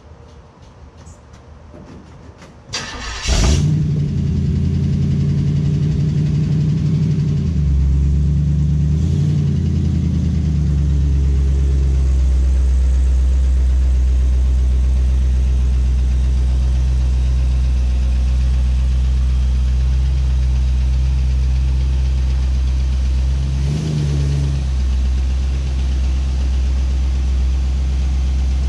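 A small-block Chevy V8 swapped into a 1946 Ford convertible starts about three seconds in, then runs at a steady, loud idle while the car is driven. The revs rise briefly about eight to ten seconds in and again near the end.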